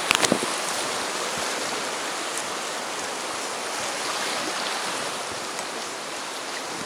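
Rushing river water, a steady even rush, with a brief sharp knock or two right at the start.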